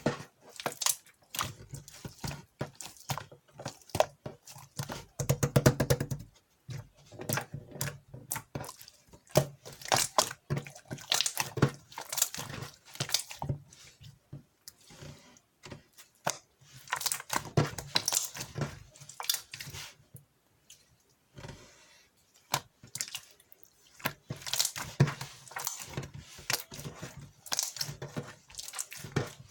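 Clear slime being squeezed, folded and stretched by hand, making irregular sticky clicks and pops in clusters with short pauses between.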